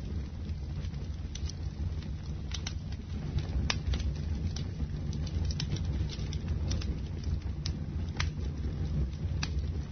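Bonfire burning: a steady low rumble of flames with scattered sharp crackles and pops from the burning wood.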